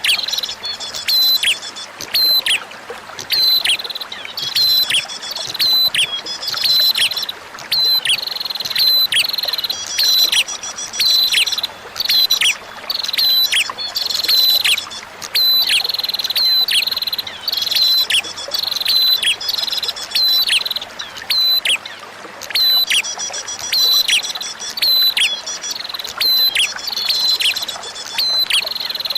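A prinia singing: rapid, sharp, downward-sweeping high notes, about two a second, repeated in runs of a few seconds with brief pauses. It is mixed over a steady trickle of flowing water.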